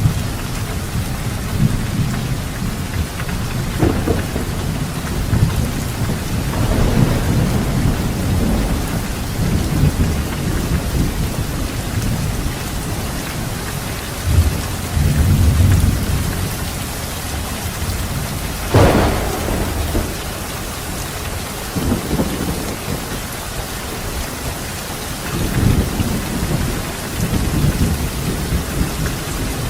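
Steady heavy rain with thunder rolling low several times, and one sharp thunderclap about two-thirds of the way through.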